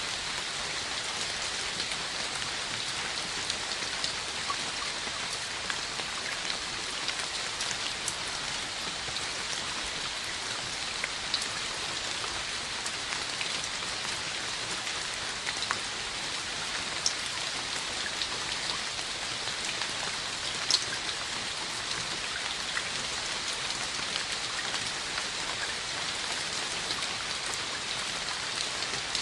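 Steady rain falling, a dense even hiss with individual drops ticking sharply here and there, one louder tick about two-thirds of the way through.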